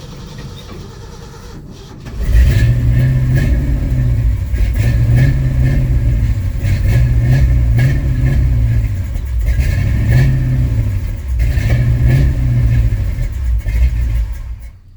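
A Ford 360 FE big-block V8 runs loud from about two seconds in, its speed rising and falling in repeated surges rather than settling to a steady idle, until the sound drops away sharply near the end. The owner takes the unsteady running for ignition timing that needs adjusting.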